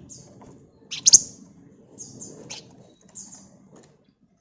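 Flamboyan bird calling in short, high chirps and brief trills, spaced irregularly, the loudest about a second in.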